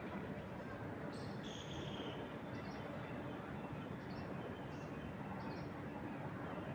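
Steady rush of wind through trees, with a small bird chirping over it: a two-part call about a second in, then brief high chirps every second or so.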